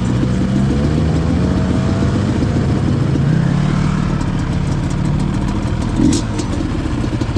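Yamaha Banshee's twin-cylinder two-stroke engine running while riding, its pitch rising and falling with the throttle. A brief thump comes about six seconds in.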